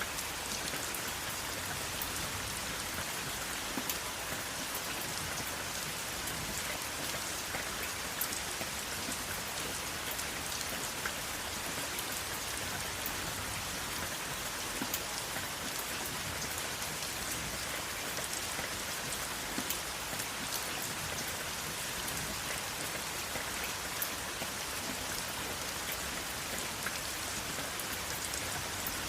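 Steady rain falling, an even hiss with scattered sharper drop taps on a surface. No thunder.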